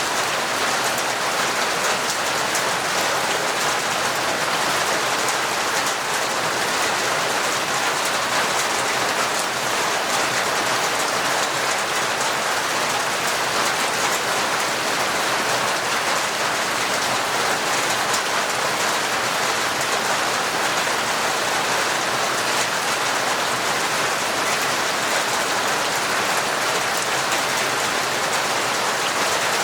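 Heavy, torrential rain falling steadily: an even, unbroken hiss with no change in strength.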